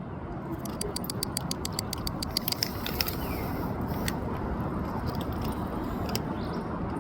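A quick run of small metallic clicks for about two seconds, then a few scattered clicks, over a steady rushing background noise.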